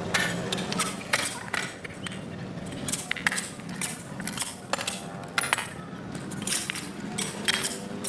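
Irregular clinks and scrapes of hard objects, many in quick succession, over a faint steady low hum.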